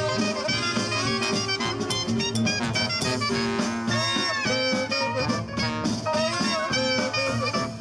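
Swing-style jazz music with brass and saxophone playing melodic lines over a steady beat.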